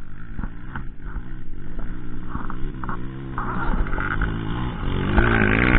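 Honda Bros trail motorcycle fitted with an XR200 single-cylinder four-stroke engine, revving up and down under throttle as it works up a steep dirt hill, getting louder toward the end.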